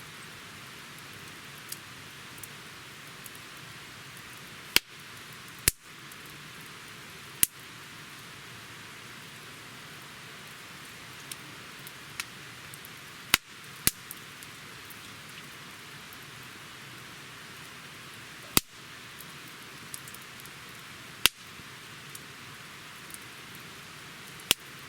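Wood campfire burning with a steady soft crackle and hiss, broken by about eight sharp, loud pops at irregular intervals.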